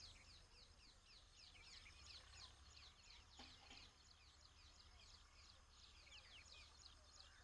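Faint birds chirping: many short falling chirps, several a second, over a low steady hum.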